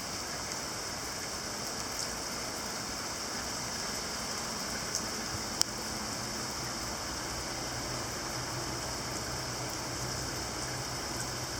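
Heavy rain coming down in a steady downpour, an even hiss of rain with scattered drop ticks and one sharp tick about five and a half seconds in.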